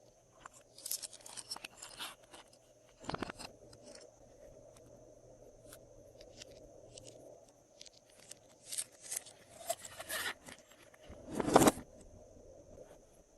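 Slime being mixed, with irregular sticky clicks and crackles. There is a louder squelch about three seconds in and the loudest one a couple of seconds before the end.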